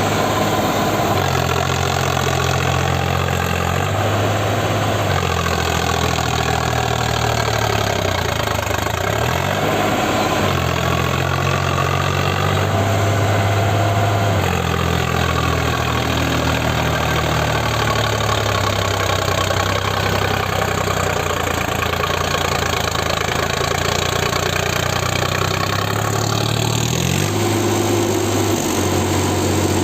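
Tractor diesel engine running, its speed rising and falling again and again every few seconds.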